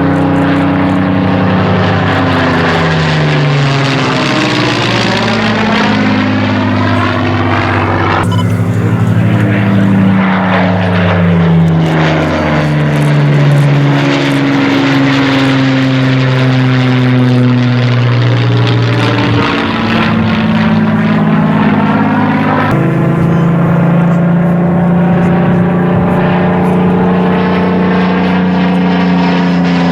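Rolls-Royce Merlin V12 piston engines of Spitfire and Hurricane fighters flying past, several engines at once, their pitch sliding up and down as the aircraft approach and pass. The sound changes abruptly about 8 and 23 seconds in.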